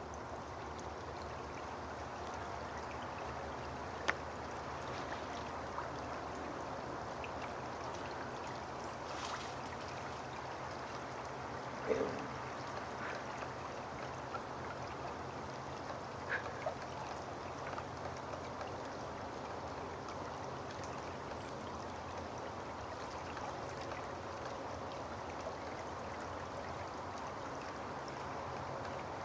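Steady rushing background noise, with a few faint isolated clicks, the sharpest about four seconds in and about twelve seconds in.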